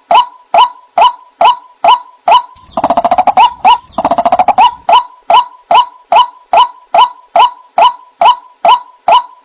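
White-breasted waterhen calling: a loud, monotonous series of short repeated notes, about two and a half a second, broken about three seconds in by a second or two of rapid chattering.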